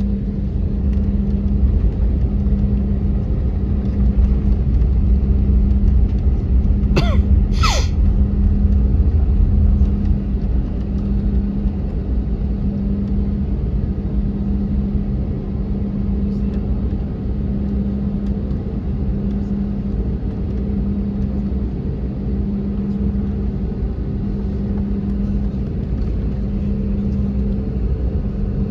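Cabin noise of an Airbus A321neoLR on the ground: a steady engine hum and a low rumble, a little louder in the first ten seconds. Two short sounds cut in briefly about seven seconds in.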